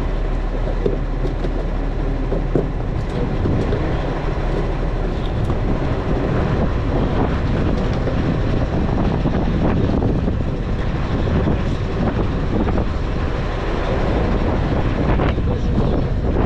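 Garbage truck running, a steady heavy rumble with scattered rattles and clatter, mixed with wind buffeting the microphone.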